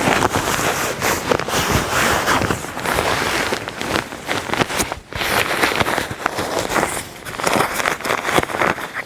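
Close, crinkly rustling and rubbing of nylon fabric as a folded, inflated air mattress is pushed into a hammock's sleeve, with brief pauses about five and seven seconds in.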